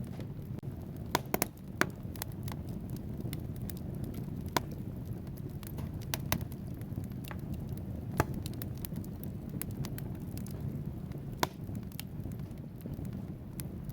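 Wood fire burning in a fireplace: a steady low rush of flames with sharp, irregular crackles and pops from the burning logs, a few louder snaps scattered through.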